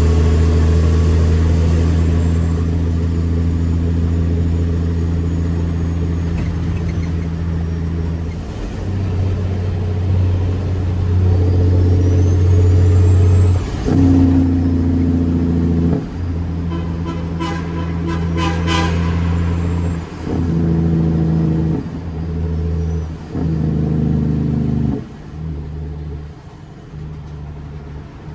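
Caterpillar C13 diesel in a Kenworth W900B dump truck, running under load while driving. Its note breaks off and steps in pitch again and again, the pattern of gear changes, with a short burst of rapid clicking about two-thirds through.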